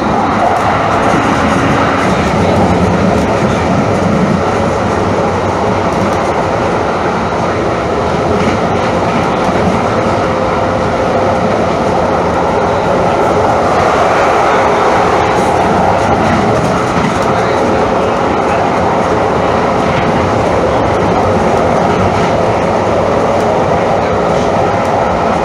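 Calgary CTrain light-rail train running along the track, a steady rail rumble throughout.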